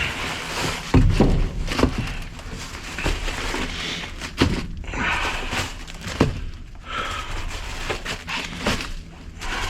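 Rummaging through goods in a dumpster: irregular knocks and thuds of boxes and packages being moved, with plastic packaging rustling and crinkling.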